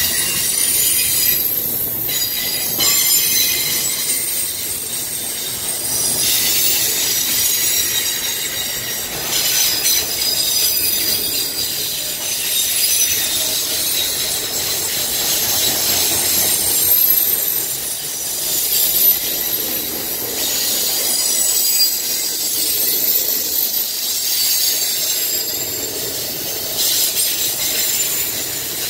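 Freight train of autorack cars rolling past close by, its wheels squealing on the curve of the wye in several high, steady tones that fade in and out over the steady noise of steel wheels on rail.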